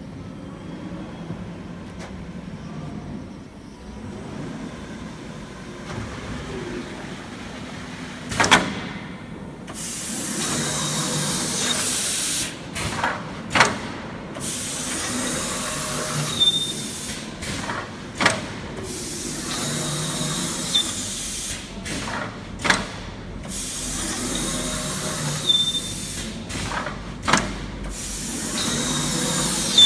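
Double-head CNC V-groover running in cycles: a loud scraping hiss lasting a few seconds at a time, broken by sharp clunks and short pauses between passes. The first few seconds hold only a low, steady machine hum.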